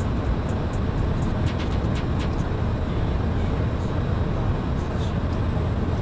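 Steady engine and airflow noise inside the cockpit of a small twin-engine aircraft in flight on approach to land.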